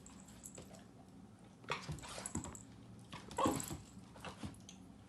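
Bluenose pit bull puppy playing, with short scuffles and tapping clicks and a brief dog noise a little over three seconds in.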